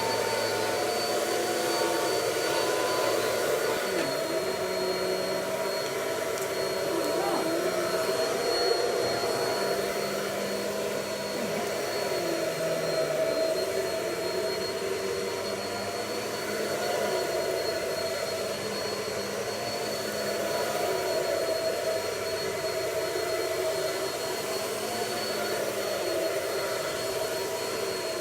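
Vacuum cleaner running steadily while vacuuming carpet, a continuous motor drone with a steady high-pitched whine.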